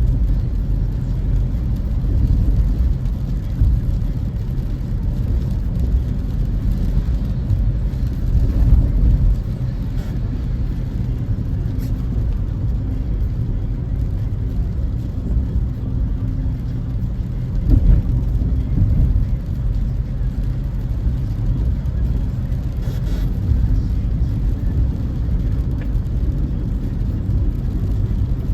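Car driving at steady speed, heard from inside the cabin: a continuous low rumble of road and engine noise. A single thump comes about two-thirds of the way through.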